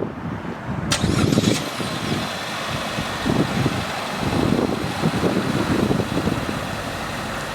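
2020 Chevrolet Trax's 1.4-litre turbocharged four-cylinder being started by remote start and then running, with a sharp click about a second in.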